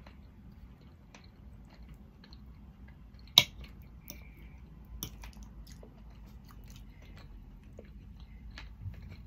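Close-up chewing of a mouthful of roast beef and peas, soft and wet. A sharp clink of cutlery on a ceramic plate comes about three seconds in, and a lighter one about five seconds in, as a knife cuts on the plate.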